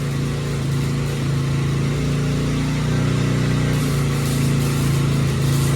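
An engine running steadily at a constant speed, an even low drone with no revving.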